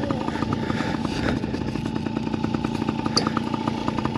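Two-stroke dirt bike engine idling steadily, its exhaust beating in an even, rapid pulse.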